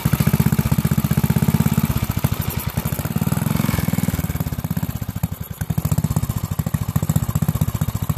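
5 hp Briggs & Stratton single-cylinder engine running loud just after starting, its firing sagging about halfway and picking back up; it is still full of water from being doused and is burning through that water.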